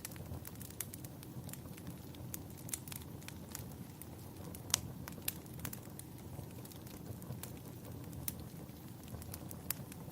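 Wood fire crackling in a fireplace: irregular sharp pops and snaps over a steady low rumble of flames, with one louder pop about halfway through.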